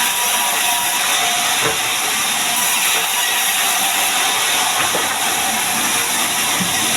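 Heavy rain falling, a loud steady hiss with a few faint ticks scattered through it.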